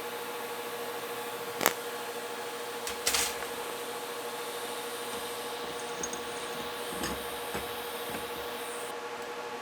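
Steady hiss and electrical hum of TIG welding on thin-walled mild steel tubing, with a sharp click a couple of seconds in and a few light knocks later; the high hiss falls away near the end.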